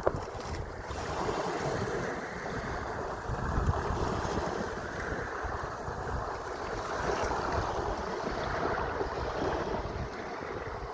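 Sea waves washing and surging, swelling and easing every few seconds, with wind buffeting the microphone.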